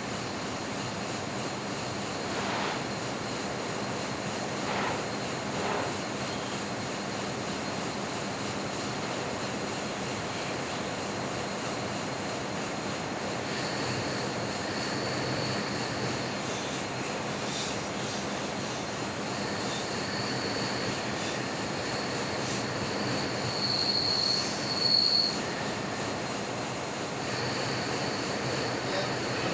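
Metal lathe running with a cutting tool on the turning workpiece; from about halfway a thin high-pitched squeal of the tool on the metal comes and goes, loudest near the end, over a steady machine hum.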